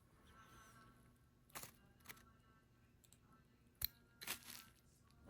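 Faint handling of a perfume bottle: a few short hissy bursts and one sharp click, in otherwise near silence.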